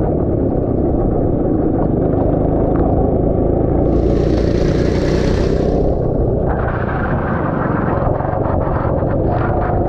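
Go-kart engine running steadily, heard onboard from the helmet camera, with a hiss rising over it for about two seconds midway.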